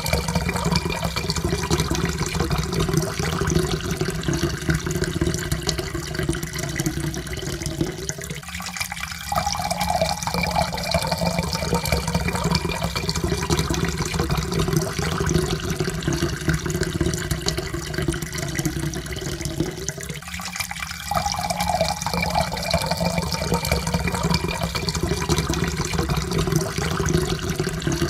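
Water pouring steadily into a cup, the pitch of the filling rising slowly as the cup fills. It breaks off briefly and starts again from a low pitch about eight seconds in and again about twenty seconds in.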